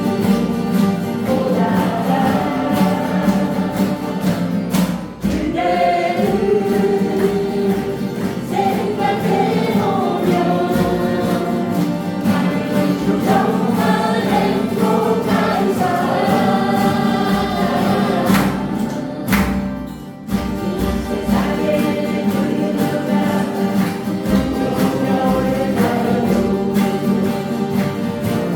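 A group of voices singing a song together, accompanied by acoustic guitars, with two short breaks between phrases.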